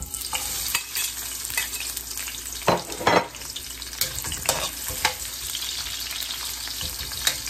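Chopped garlic and onion dropped into hot oil in a wok, sizzling steadily from the moment they land. A metal spatula stirring them scrapes and knocks against the pan now and then, most loudly about three seconds in.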